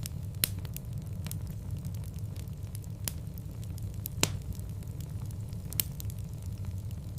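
Wood fire burning in a fireplace, with a steady low rumble and scattered sharp crackles and pops, the loudest about half a second in, a little after four seconds and near six seconds.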